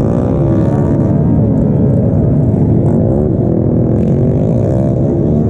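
Several motorcycle engines running together, their pitches rising and falling unevenly as they rev.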